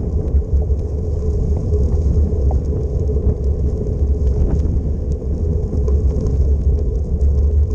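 Wind rumbling on the microphone during a bicycle ride, a steady low rumble that rises and falls, with road noise underneath and a few faint ticks.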